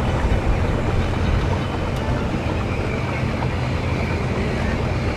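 Boat engines running with a steady low rumble.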